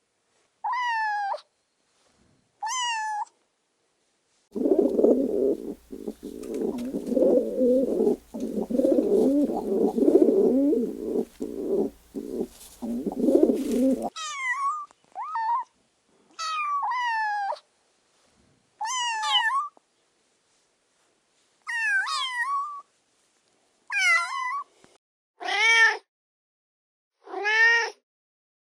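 A young pet's repeated short, high-pitched cries, each falling in pitch, a dozen or so in all. From about four to fourteen seconds in, they give way to a dense run of lower, rougher, overlapping sound.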